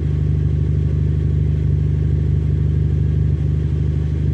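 2017 Ford Fiesta ST's turbocharged 1.6-litre four-cylinder running steadily through a DNA Motoring 3-inch cat-back exhaust, with a deep, even exhaust note.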